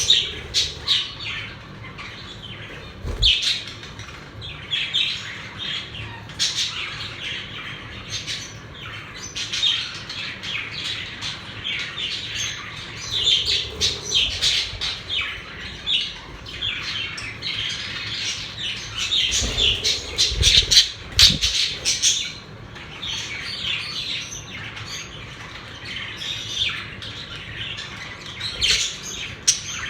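Several pet budgerigars chattering, warbling and squawking in quick, overlapping chirps. There are a few dull low thumps near the start and again about two-thirds of the way through.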